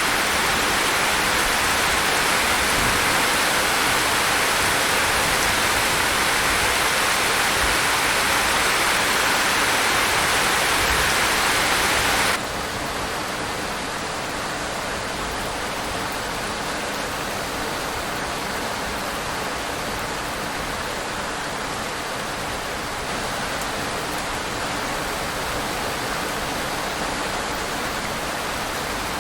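Steady rainfall, an even hiss of rain. About twelve seconds in it drops suddenly to a softer, duller level and then carries on steadily.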